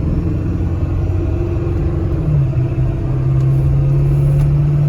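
Ford 7.3L Power Stroke V8 turbo diesel in a 1996 F350 pickup pulling steadily on the road, a loud, even drone. Its pitch dips briefly a little over two seconds in, then steadies again.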